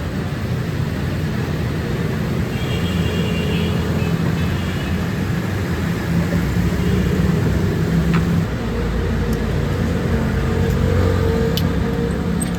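Factory machinery running steadily with a low hum, a faint high whine briefly joining in, and a few light clicks near the end.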